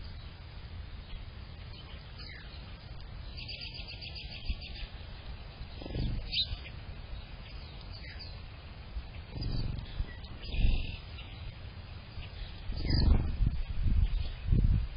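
Songbirds in a yard chirping, with short calls and a quick run of repeated notes. Several loud, low rumbles break in, the biggest cluster near the end.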